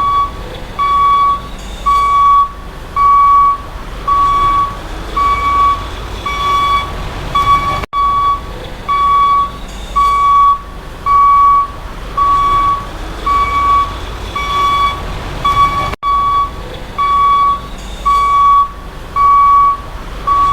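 Vehicle reversing alarm beeping about once a second, a steady single-pitched beep, over a continuous low engine rumble.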